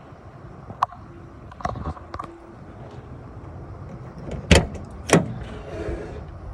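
A few clicks and knocks, then two loud sharp thumps about half a second apart, over a low steady rumble.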